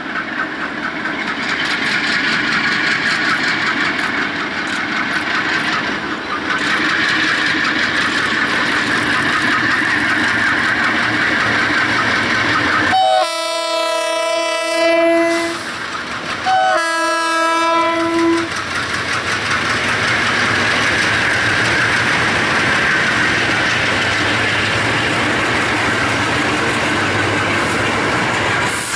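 Freight train rolling past with wheels clicking over the rail joints. About halfway through, the locomotive's air horn sounds two long blasts.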